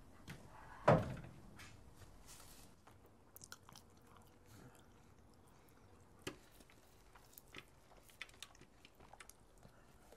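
A sharp thud about a second in, then a man chewing and biting into fried chicken, with small crunching clicks.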